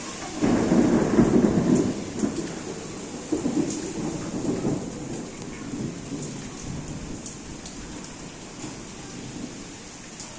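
Steady rain falling, with a roll of thunder that breaks in about half a second in, rumbles again around four seconds, and then dies away under the rain.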